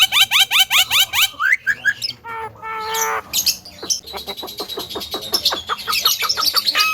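Javan myna calling: a fast run of rising chirps, about seven a second, then a few varied whistled notes and a harsh squawk about two seconds in, followed by another quick run of short chirps.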